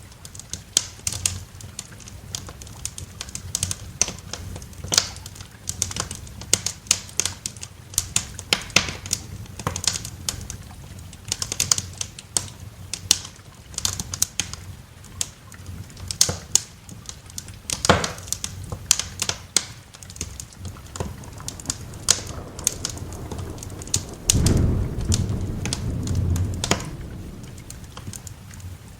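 Wood fire crackling with frequent sharp pops and snaps over a soft hiss of rain. A low rumble of thunder rolls in about three-quarters of the way through and fades within a few seconds.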